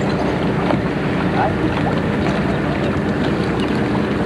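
Wind blowing steadily across the camcorder microphone, with faint voices of people chatting in the background.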